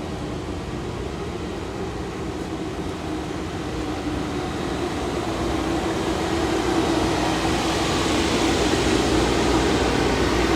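A steady engine drone with a hiss above it, growing louder from about halfway through.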